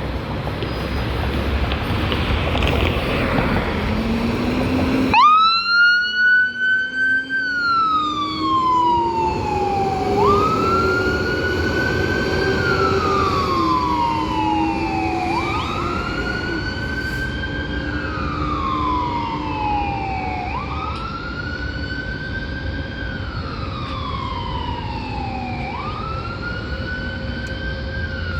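A rushing noise, then about five seconds in an emergency vehicle's siren starts up, wailing slowly up and down, one rise and fall about every five seconds.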